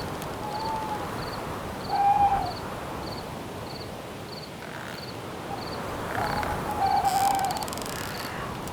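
An owl hooting a few times: a short hoot, a louder one about two seconds in, then a longer wavering run of hoots near the end. Underneath is a steady rustle of wind in the leaves and a cricket chirping about twice a second.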